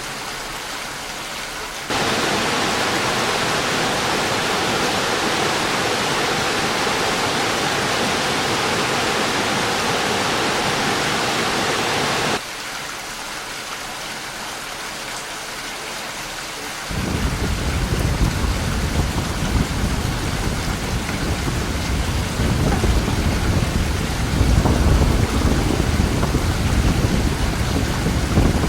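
Rain falling as an even hiss. About two seconds in it jumps suddenly to a heavier, louder downpour, which cuts off just as suddenly at about twelve seconds. From about seventeen seconds on, heavy rain carries deep, rolling thunder.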